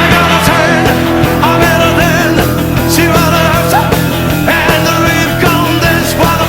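Rock and roll band music, loud and steady, with a guitar playing bending, wavering notes over bass and drums.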